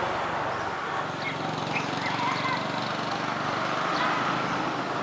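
Outdoor ambience of scattered short bird chirps over a steady low hum.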